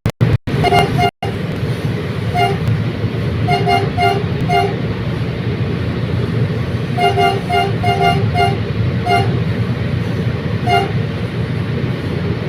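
Commuter train running with a steady rumble while short two-tone horn beeps sound in quick clusters. The sound cuts out several times within the first second or so.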